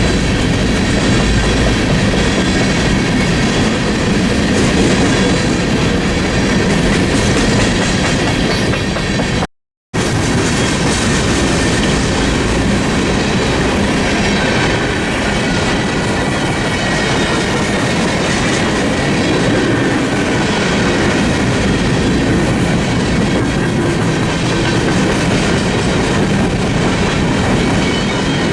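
Freight train rolling past: the loud, steady rumble and clickety-clack of railroad cars' wheels on the rail joints, with a faint thin ring from the wheels. The sound drops out for a split second about a third of the way through.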